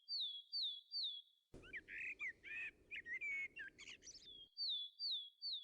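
Birds chirping: three identical high swooping chirps about half a second apart, then from about a second and a half in a busier stretch of varied birdsong over a faint hiss that cuts off suddenly near the end, where the three swooping chirps come back.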